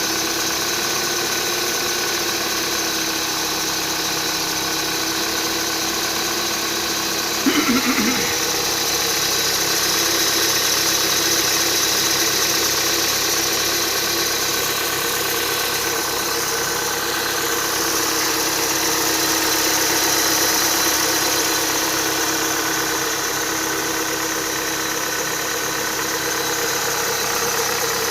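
Renault Duster engine idling with a steady whistling rustle from the accessory drive belt, a noise that began after about 52,000 km and stayed after the upper idler pulley was replaced. A brief clatter about seven and a half seconds in.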